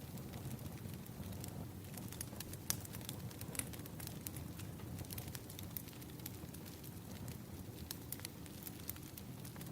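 Firewood burning and crackling: irregular sharp pops and snaps over a steady low rumble of the fire.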